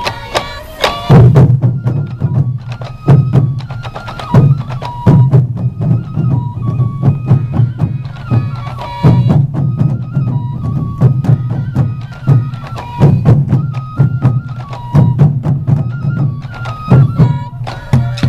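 Morioka Sansa Odori festival music: large taiko drums beating a heavy rhythm under a high bamboo flute melody.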